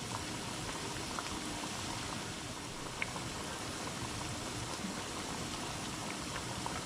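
Hot cooking oil sizzling steadily as food deep-fries, with a few small pops.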